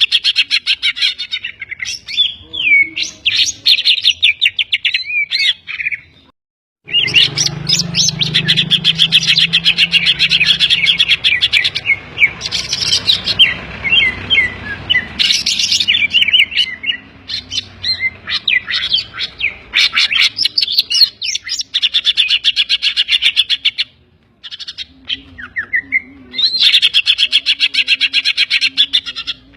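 Green leafbird (cucak ijo) singing loudly and almost nonstop: rapid chattering trills and quick whistled slurs, a song laced with calls copied from other birds. The song breaks off twice, about six seconds in and again near twenty-four seconds, then resumes.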